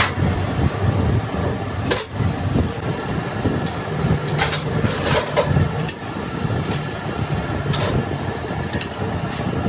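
Steady low mechanical running noise with several sharp metallic knocks and clinks.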